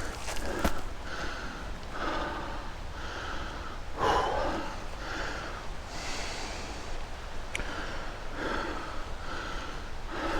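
A man breathing hard and panting, about one breath a second, out of breath from climbing a steep trail.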